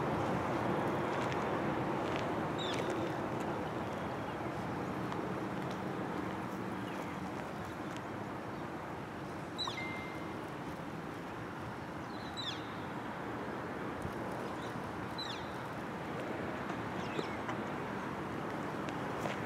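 Steady outdoor background noise with a bird's short, high, falling call repeated about five times, a few seconds apart.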